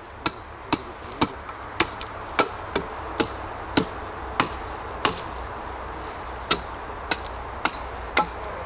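Small hatchet chopping into wood in quick, uneven strokes, about two a second, with a short pause midway: the end of a board being sharpened to a point.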